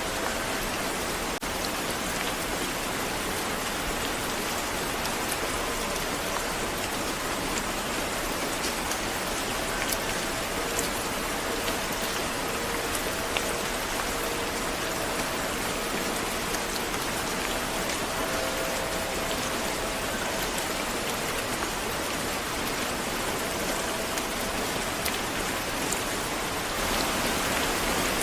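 Steady rain falling on hard surfaces, an even hiss with scattered drop ticks, getting slightly louder near the end.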